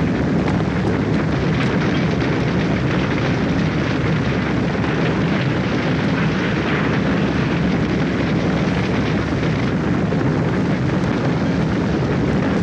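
Steady, loud roar of a burning oil-well fire.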